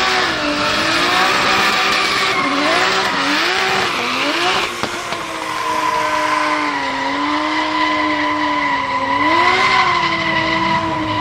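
A drift car's engine is revving up and down several times, then holding high revs in a long slide, while its tyres squeal and skid.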